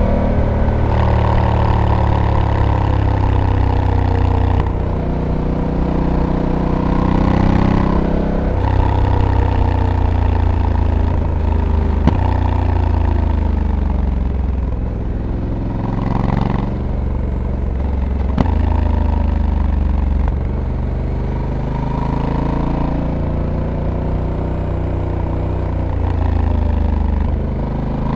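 Honda Africa Twin's 1084 cc parallel-twin engine pulling through corners, its note rising and falling with throttle. The dual-clutch transmission changes gear several times, each change an abrupt step in pitch, and two sharp clicks sound near the middle.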